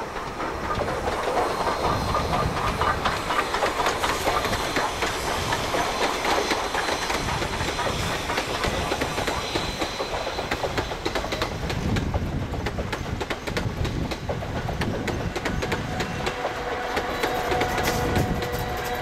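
Steam-hauled train of old passenger coaches passing close by, wheels clattering rhythmically over rail joints as the coaches roll past. A steady tone joins the clatter near the end.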